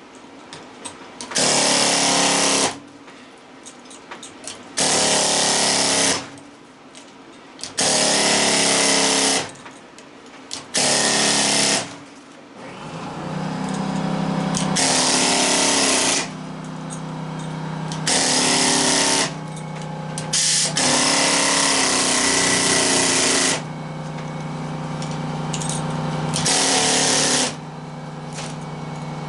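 A power tool run in repeated short bursts, each lasting one to three seconds, with a steady low hum that grows between the bursts from about halfway through.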